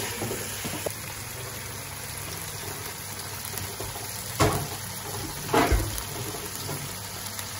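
Chicken, tomatoes and whole spices sizzling steadily in oil in a frying pan, with two sharp knocks from the wooden spatula against the pan near the middle, a little over a second apart.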